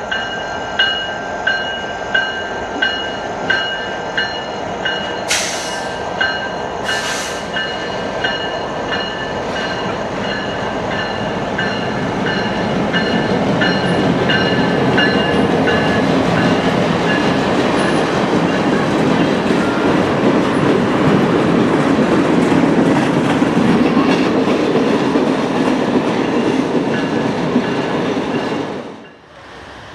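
Freight train passing, its rumble and wheel noise building to the loudest part in the second half before cutting off abruptly just before the end. A bell rings steadily, about three strikes every two seconds, for the first ten seconds or so, and there are two short hissing bursts about five and seven seconds in.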